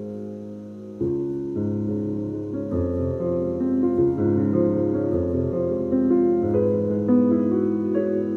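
Background piano music: a held chord fades out, a new chord comes in about a second in, and a gentle run of notes follows.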